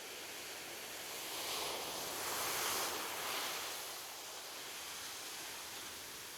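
Ocean surf: a single wave swells and breaks over a couple of seconds, then washes back to a soft steady hiss.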